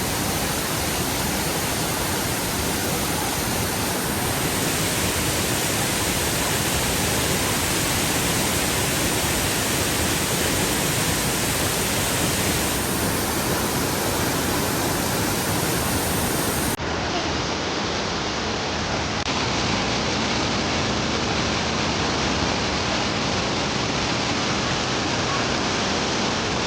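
Waterfall: falling water rushing as a steady, even noise. About two-thirds of the way through, the highest hiss drops away abruptly and the rushing carries on.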